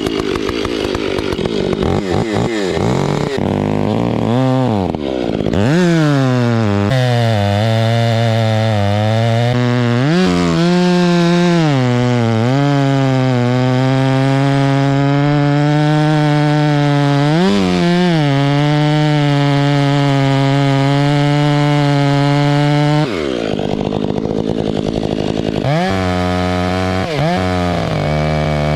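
Gas chainsaw running at high revs while cutting into a large tree trunk, its pitch sagging and recovering several times as the chain bites into the wood. About three-quarters of the way through the revs drop off, then rise again near the end.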